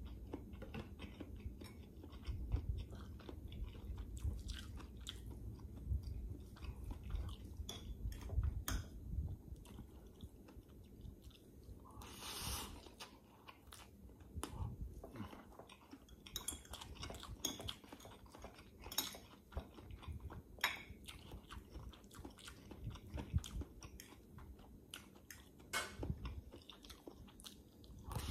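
A person eating stir-fried instant noodles (pancit canton) close to the microphone: steady wet chewing with scattered sharp mouth clicks, and one longer slurp as noodles are drawn in near the middle.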